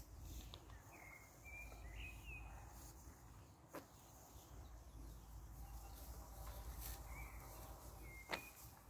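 Quiet pasture ambience: a few short bird chirps in two small groups, over a faint low rumble, with two sharp clicks, one midway and one near the end.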